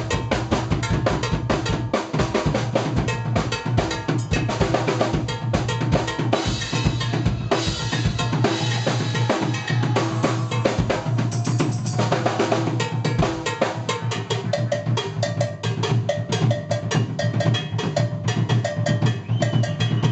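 Live jazz-fusion band music led by a busy drum kit, with rapid snare, rimshot and bass-drum strokes over a steady low bass. Short pitched notes from another instrument come in near the end.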